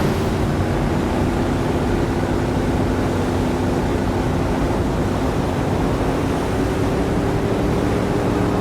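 A motor yacht under way: a steady rush of water and wind with a low, even hum underneath.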